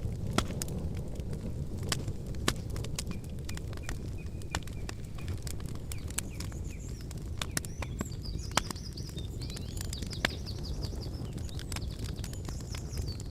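Campfire crackling and popping, with irregular sharp snaps over a steady low rumble of the burning wood. A small bird chirps a few times early on, then sings a fast, high twittering run from about two-thirds of the way in.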